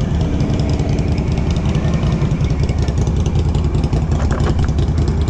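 Off-road four-wheeler's engine running steadily at low revs, with an even low pulsing throughout.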